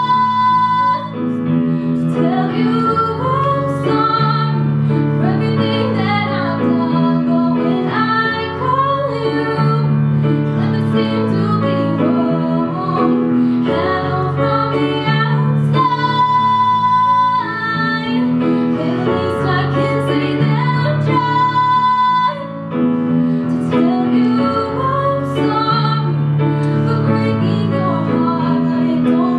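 A woman singing a song with piano or keyboard accompaniment and a steady bass line.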